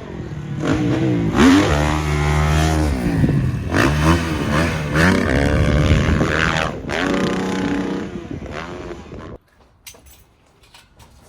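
Dirt bike engines revving hard, the pitch climbing and falling again and again as the throttle is opened and closed, before cutting off abruptly about nine seconds in.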